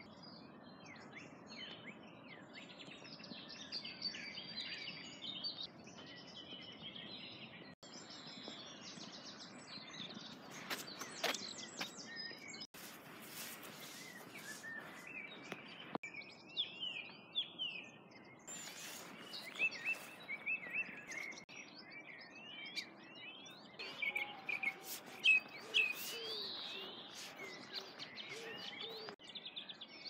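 Several small birds chirping and singing in short, quick phrases over a steady outdoor hiss. The sound breaks off and changes abruptly several times.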